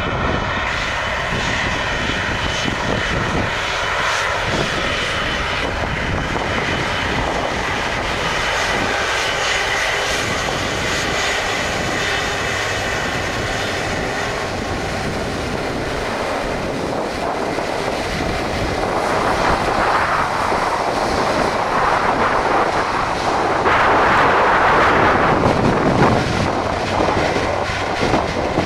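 Airliner engines running as an aircraft moves past: a steady rush with a faint whine. It grows louder about two-thirds of the way through and is loudest near the end.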